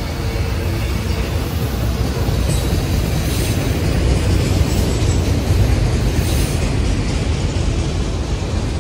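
Freight train of autorack cars rolling past at close range: a steady, loud rumble of wheels on the rails.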